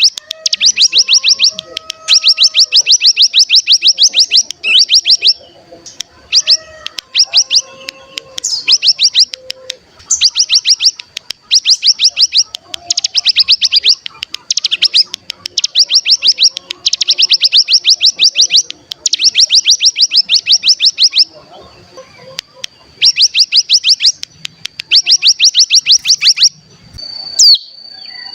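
Ciblek gunung (cigun) singing its 'bren': loud, rapid rattling trills, each a second or two long, repeated again and again with short gaps. Near the end come a few short sharp notes over a thin, steady high whistle.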